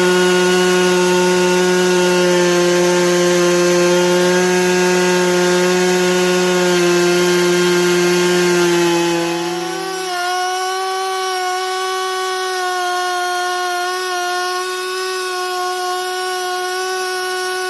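Gasoline chainsaw on a Logosol chainsaw mill running at a steady, even pitch while ripping a Japanese cedar log lengthwise. About ten seconds in, the sound thins and drops slightly in level, but the saw keeps running.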